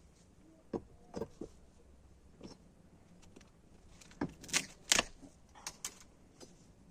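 Irregular knocks and clatters of hard objects being handled, about ten in all, loudest in a cluster about four to five seconds in.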